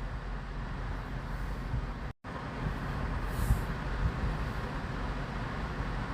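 Steady outdoor rumble of vehicles and traffic with no single distinct event. The audio drops out completely for a split second about two seconds in.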